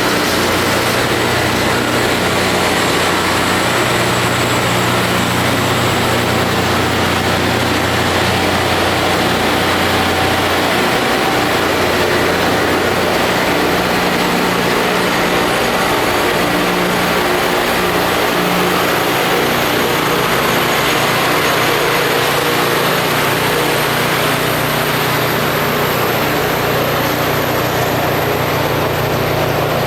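Rail grinding machine at work: the steady, loud hiss of grinding wheels on the railhead over the low run of its diesel engines, the engine note shifting a little in pitch.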